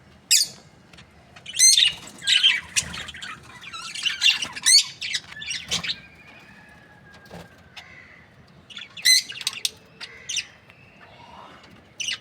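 Budgerigars chirping and squawking in scattered bursts of sharp, high, warbling calls, with a quieter spell in the middle.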